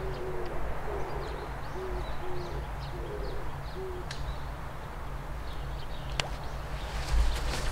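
A bird giving a series of short, low hooting notes through the first half, with faint chirps of small birds above. A couple of sharp clicks follow, and a louder burst of noise starts near the end.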